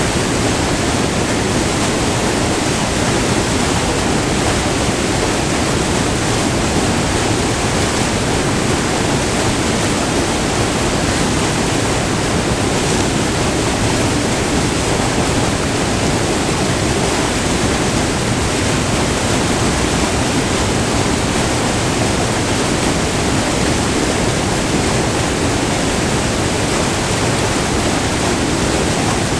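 White water of Furnace Falls, a short multi-tiered waterfall on the Irondale River, rushing in a loud, steady roar heard up close.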